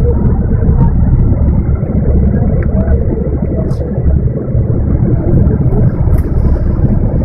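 A heavy rainstorm with wind-driven rain and rushing street floodwater. A loud, steady low rumble dominates, as wind buffets the microphone.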